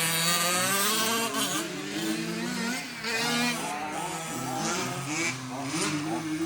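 Motors of several remote-control 4WD racing trucks whining together, their pitches rising and falling as they accelerate and slow around the track.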